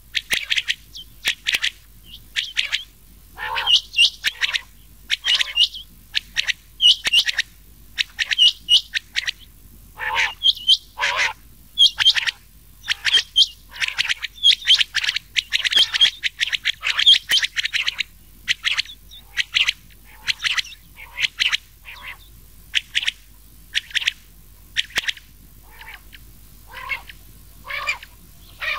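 Rain quail calling, mixed with the calls of another quail: short, sharp repeated notes in quick runs with short gaps, busiest in the middle and thinning out toward the end.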